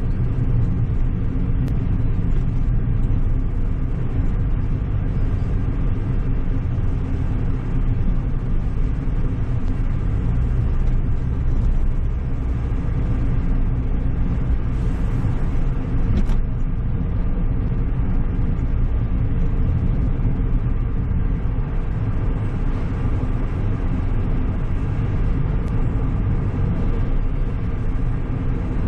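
Steady low rumble of a car being driven: engine and tyre noise, with a brief hiss and a click about halfway through.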